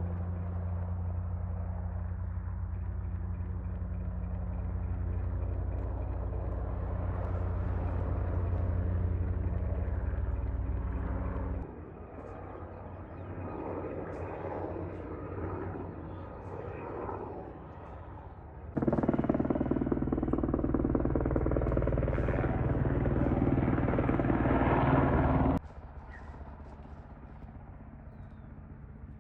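Sikorsky MH-60 Black Hawk–type military helicopter running overhead: a steady rotor and twin-turbine drone with a low pitched hum. It drops suddenly in loudness about twelve seconds in, returns louder a few seconds later and falls away again.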